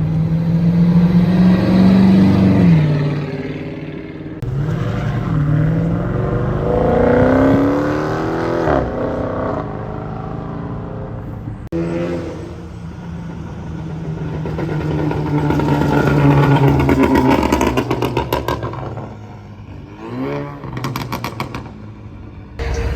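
Car engines revving hard and accelerating away, their pitch climbing and falling several times, with rapid exhaust crackles and pops near the end as the throttle comes off.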